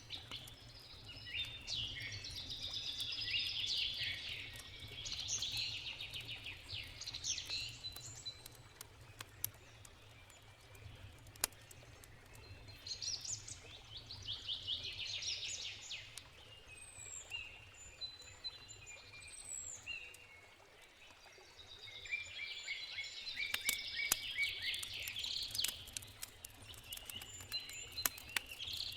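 Songbirds chirping and singing in repeated bouts, over the sharp crackles and pops of a wood campfire and a faint low rumble underneath.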